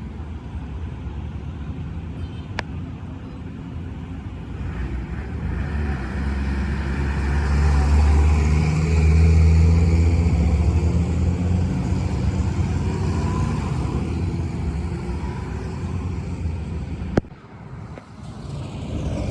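A heavy vehicle's engine running, growing louder for several seconds in the middle and then easing back. A sharp click sounds early on and another near the end.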